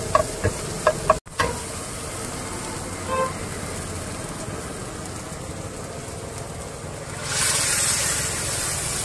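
Chopped onion, tomato and chilli sizzling in oil in a wok, with a steel ladle knocking and scraping against the pan for the first second or so. About seven seconds in, water is poured into the hot oil and the sizzle jumps to a loud hiss.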